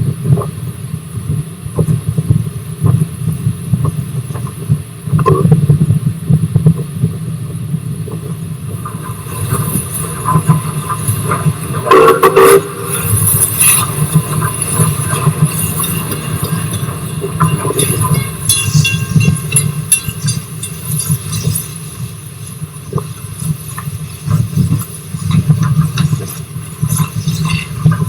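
Rx207 steam locomotive and its carriages running along the line: a steady low rumble with a constant clatter of wheels on the rails. A brief pitched tone sounds about twelve seconds in.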